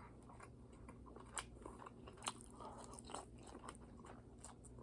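A person faintly chewing a mouthful of beef bulgogi, with scattered soft mouth clicks and smacks.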